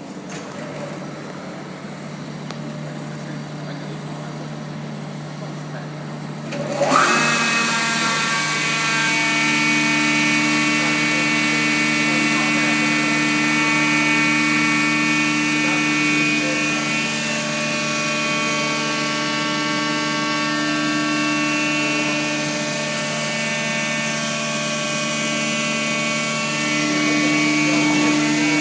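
Steady machine hum, then about seven seconds in a Peddinghaus CNC sawing and drilling line starts up with a sudden loud rise into a steady, high whine of several held tones that keeps running.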